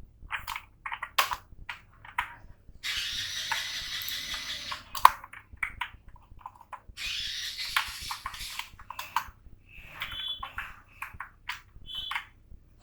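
Computer keyboard typing in quick bursts, with scattered separate key and mouse clicks in between, and two short high tones near the end.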